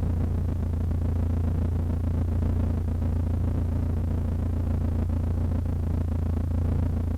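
Cessna 152's four-cylinder Lycoming engine idling: a steady, even low drone.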